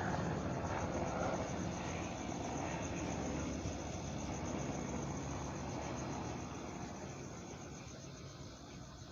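UH-60M Black Hawk helicopter's rotor and turbine noise fading steadily as it moves away, over crickets chirping in a fast even pulse.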